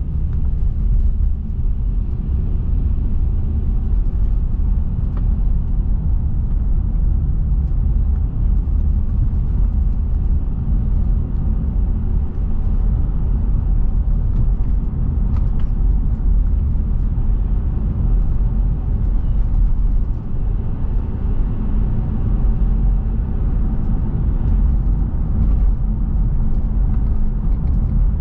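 Car driving: a steady, deep rumble of road and running noise with no sudden events.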